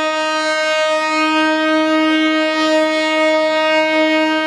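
Indian Railways locomotive horn held in one long, steady single-note blast.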